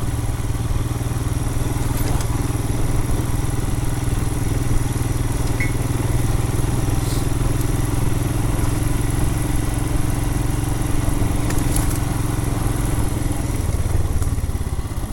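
2020 Royal Enfield Himalayan's single-cylinder engine running at steady low revs on a rutted dirt trail, its note shifting near the end, with a few faint clicks and knocks.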